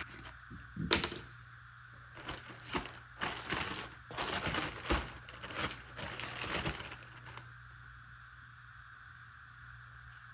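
Plastic bag crinkling and clicking in short irregular bursts as raw chicken is mixed in it with olive oil and lemon juice, with a sharp click about a second in; the handling stops after about seven seconds, leaving a faint steady hum.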